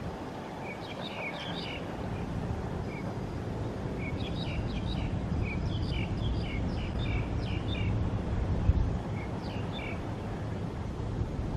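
A bird chirping in three bouts of quick, high notes over a steady low outdoor rumble, with a brief thump late on.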